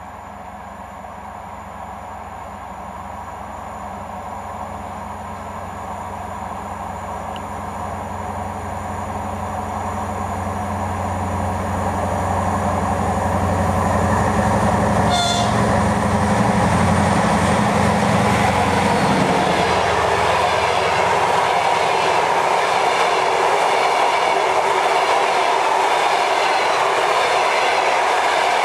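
TEP60 diesel locomotive hauling a passenger train, its engine drone growing steadily louder as it approaches. After about twenty seconds the engine sound drops away and the coaches roll past with a steady rumble and clatter of wheels on the rails.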